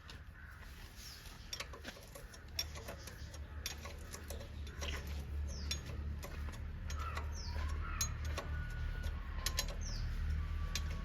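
Scattered metallic clicks and taps of a ring spanner tightening the oil drain bolt on a Honda Unicorn engine, with short falling bird chirps repeating every second or two and a low hum growing louder.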